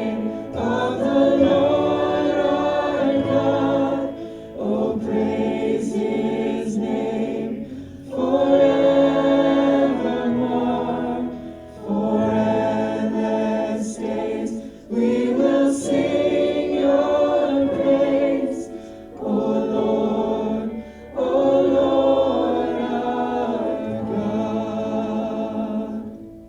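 A small group of voices singing a contemporary worship chorus together in harmony, in phrases of a few seconds with short breaths between. Only light rhythm sits under the voices, so the singing sounds nearly a cappella.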